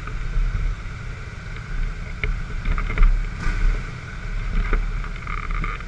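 Low, steady rumble of motorcycle engines, with wind buffeting the microphone and a few short clicks.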